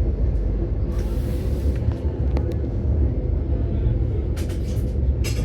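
Train running along the rails, a steady low rumble heard inside the passenger carriage, with a short hiss about a second in and a few sharp clicks near the end.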